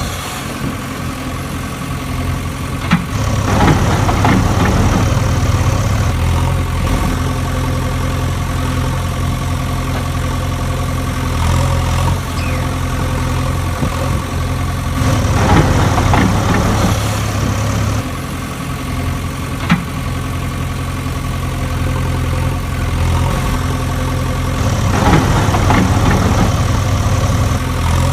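An engine running at idle, a steady low hum that swells louder three times, about every ten seconds.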